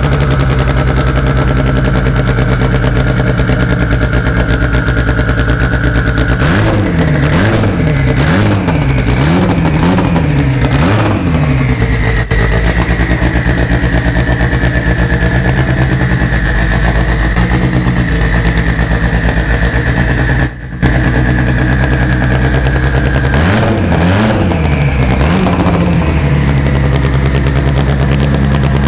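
Turbocharged drag-car engine with a Precision 6870 turbo, just started and idling loudly with a steady high whine over it. The throttle is blipped in quick rises and falls several times starting about seven seconds in, and again briefly around twenty-four seconds.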